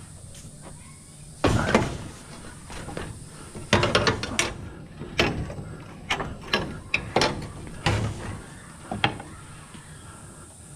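Metal scrap being handled and shifted on a trailer load, clanking and rattling in a string of irregular knocks.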